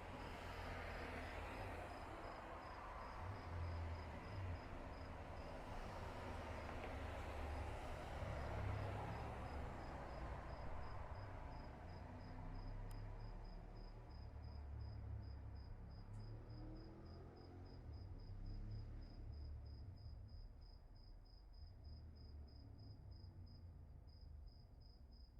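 A cricket chirping in an even, rapid pulse of several chirps a second, high-pitched and steady throughout. Underneath is a low rumble and a broad hiss that fades away about two-thirds of the way through.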